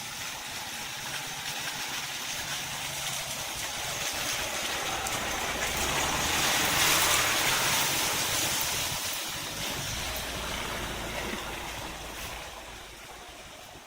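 A car driving along a rutted dirt track: engine running with tyre and body noise, growing louder to a peak about halfway through, then fading.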